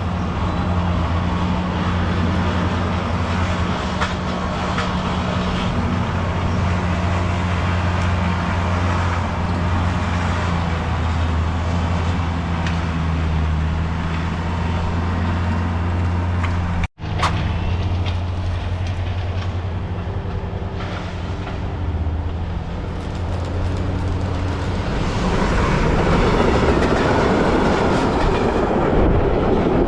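A train running past with a steady low hum, cut briefly by a sudden dropout partway through; near the end louder wheel and rail clatter builds up as the cars go by.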